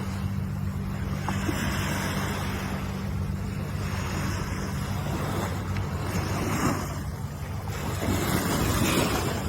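Ocean waves washing onto shore over a steady low rumble, the surf swelling several times and loudest near the end.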